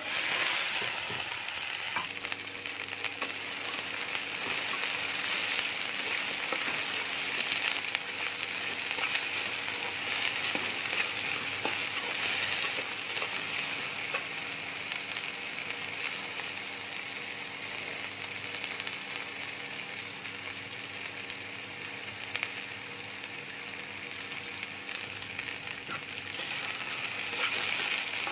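Chopped okra sizzling in hot oil in an aluminium kadai, starting suddenly as the okra goes into the pan, with a metal spatula scraping and clicking against the pan as it is stirred.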